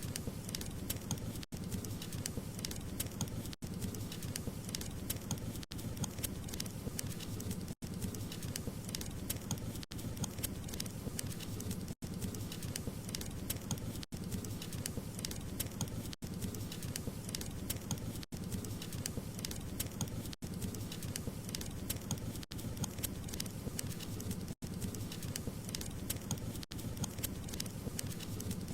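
Wood fire burning in a fireplace, crackling with a dense run of small pops, with a brief gap in the sound about every two seconds.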